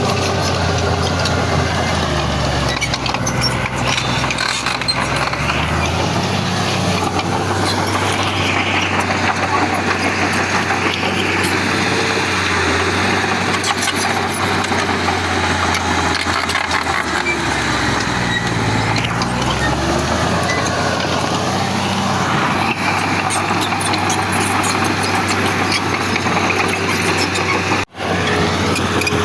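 Heavy diesel engine of earthmoving machinery running hard, its note dipping and rising a few times as the load changes, with a split-second break near the end.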